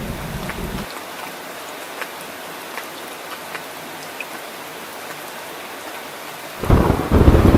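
Steady heavy rain with scattered drops ticking on a surface, under a low rumble of thunder that cuts off about a second in. Near the end a loud rumble of thunder breaks in suddenly.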